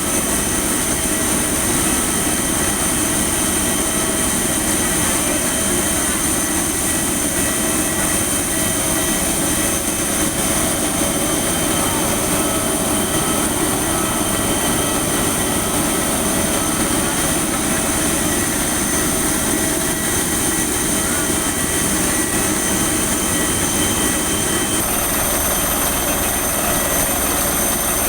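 Airliner engines running steadily: a continuous rush of noise under several steady high-pitched whines. The tones change slightly about 25 seconds in.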